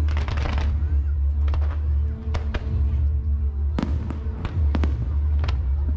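Aerial fireworks bursting in a string of sharp bangs and cracks, several close together at the start and more spaced out later, over a steady deep rumble and a music soundtrack.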